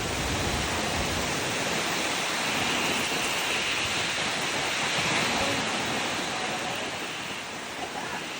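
Heavy rain pouring down: a steady, dense hiss with no separate drops standing out, easing slightly near the end.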